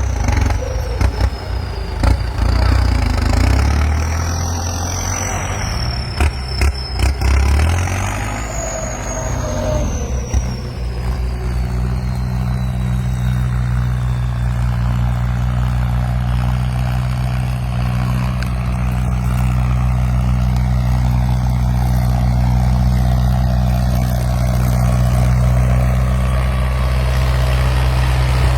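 Diesel farm tractor engine running under way. For the first ten seconds it is uneven, with several sharp knocks and a high whine that slides down in pitch. It then settles into a steady, even drone for the rest.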